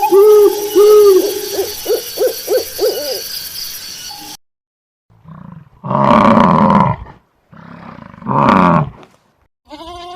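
Animal calls: a series of pitched hoots that come faster and fade out over about four seconds, then, after a short pause, two loud, rough roars about a second and a half long each.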